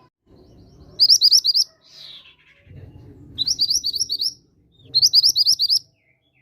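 A mountain mantenan bird singing three short phrases, each a quick run of high, rising chirps. The phrases start about a second in, midway through, and near the end.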